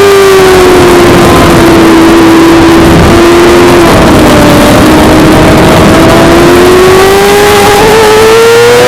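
Suzuki GSX-R600's inline-four engine at speed on track. Its note sinks slowly through the first half, then climbs steadily again near the end as it pulls, over a constant rushing noise.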